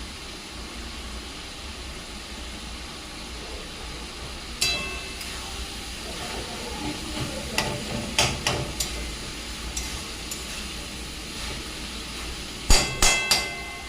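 Metal spoon or spatula knocking and clinking against a cooking pan while chicken is stirred as it cooks down in oil, over a steady low frying hiss. One ringing clink about four and a half seconds in, a run of knocks around eight seconds, and the loudest burst of three or four ringing clinks near the end.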